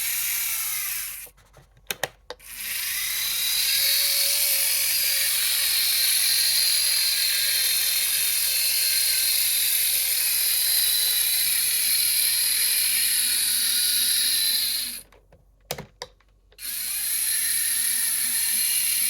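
Model Shay geared locomotive's small electric motor and gear train whirring steadily as it runs, running smoothly after adjustment. The whir cuts out twice, just over a second in and again about fifteen seconds in, each time for about a second, with a few clicks in the pause.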